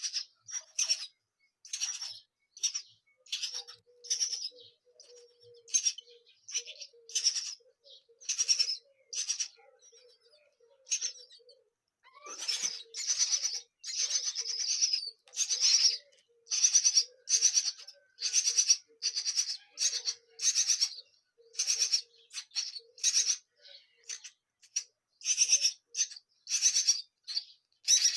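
Nestling songbirds' begging calls: short, high, raspy chirps repeated about twice a second, coming thickest and loudest midway through.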